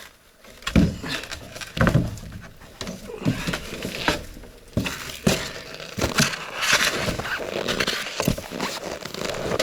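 Irregular crunching knocks and rustling of a person moving about, roughly one sharp knock a second, in the manner of steps and handling of clothing or gear.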